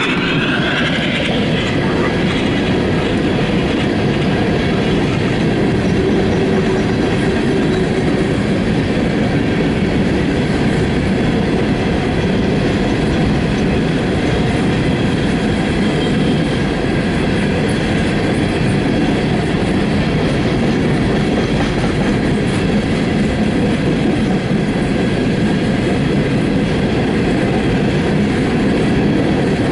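Empty CSX coal train's open-top hopper cars rolling past close by: a loud, steady rumble and clatter of steel wheels on the rails.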